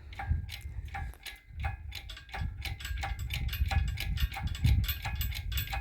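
Engine hoist being worked to raise a log: irregular mechanical clicks from the hoist's lifting mechanism, over a steady low rumble.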